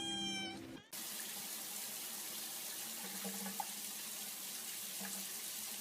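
Water running steadily from a tap, an even hiss, starting after a sudden cut about a second in.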